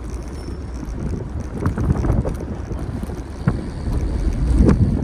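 Wind rumbling on the microphone of a camera carried on a moving bicycle, over city street noise, with a few short clicks and knocks.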